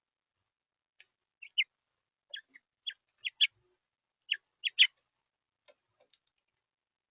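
Small songbirds giving short, sharp chip notes, about a dozen at irregular intervals, with a loud cluster around four to five seconds in.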